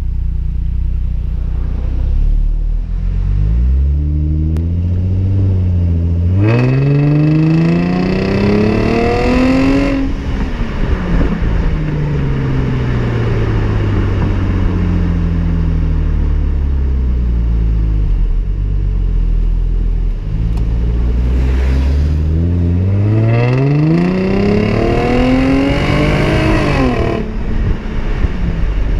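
2010 Hyundai Genesis Coupe 3.8 V6 running through its stock exhaust: idling, then revved twice, each time climbing for about three seconds before the throttle is let off and the revs fall slowly back to idle, with a short blip of throttle before each rev.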